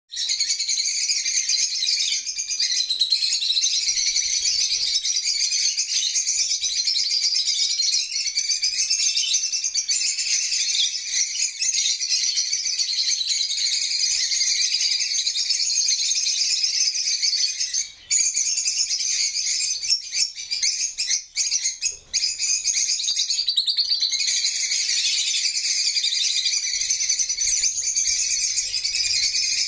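A group of parrots chirping and chattering continuously, a dense high-pitched twittering with many birds calling over one another, broken by a couple of brief gaps about two-thirds of the way through.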